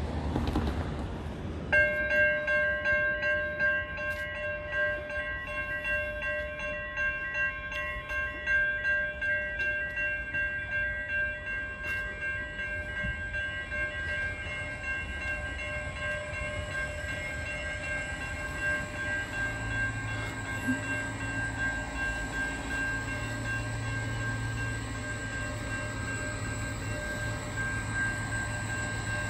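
Passenger railcar train at a station platform, its engine humming low, more strongly in the last third. Over it, from about two seconds in, a steady high-pitched multi-tone ringing sounds with a pulsing beat.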